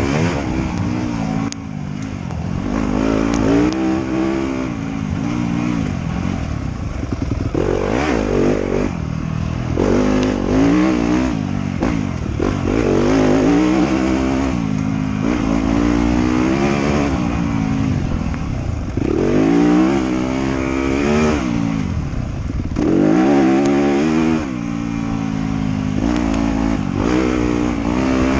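Off-road motorcycle engine running under changing throttle, its revs climbing and dropping every few seconds as the bike is ridden along a dirt trail.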